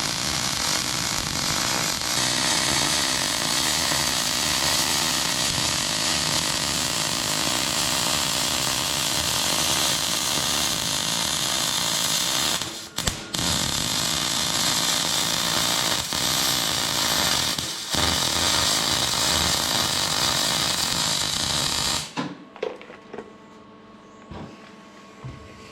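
Electric arc welding on a steel tractor muffler: a long steady run of loud arc noise, broken twice for a split second, then stopping abruptly near the end.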